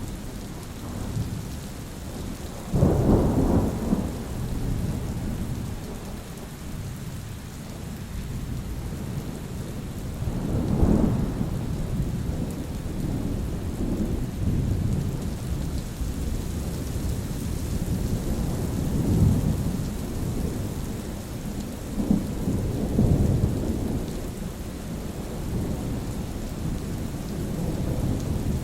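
Steady rain falling, with rolling thunder. A sudden loud thunderclap comes about three seconds in, and further rumbles swell and fade through the rest.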